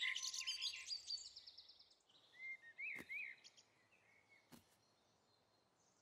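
Birdsong: many high chirps and trills fading out over about two seconds, then a few soft rising-and-falling chirps around the middle.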